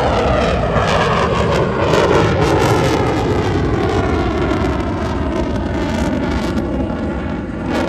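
Airplane flying past, its engine sound loud and sliding down in pitch as it goes by.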